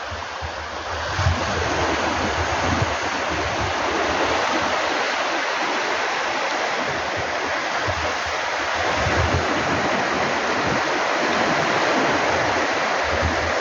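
Steady rushing of water, with irregular low gusts of wind buffeting the microphone.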